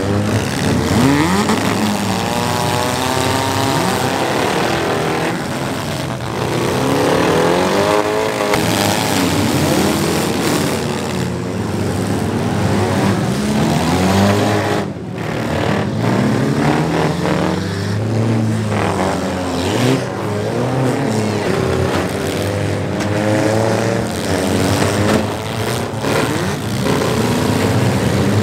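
Several demolition derby cars' engines revving at once, each rising and falling in pitch over and across the others, with no let-up.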